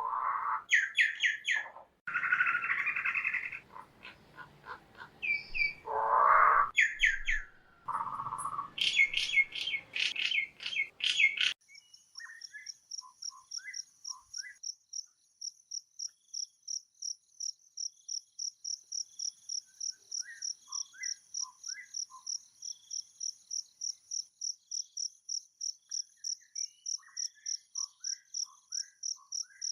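Loud, varied high-pitched chirps and squeaky calls for the first part. After an abrupt change, an insect chirps steadily and evenly at about three chirps a second, with scattered short bird chirps.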